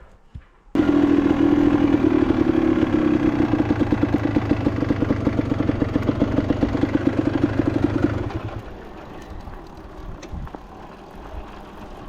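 Enduro motorcycle engine starting abruptly about a second in and running steadily with an even pulsing beat, then dropping away much quieter about eight seconds in.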